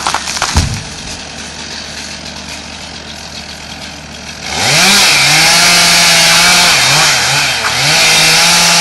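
Chainsaw idling after a burst of cracks and a heavy thump near the start, then revved up about halfway through and held at high speed, with a couple of brief dips.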